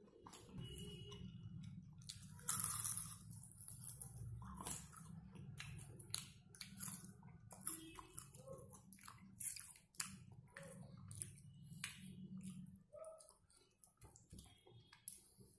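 Close-up chewing and biting of pepper-fried chicken and fried curry leaves: many short, irregular wet smacks and crisp clicks, with one louder bite about two and a half seconds in.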